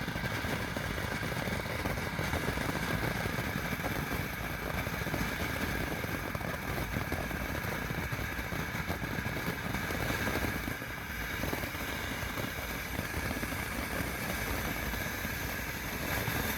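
Ground fountain firework spraying: a steady, dense hiss and crackle that cuts off suddenly at the end.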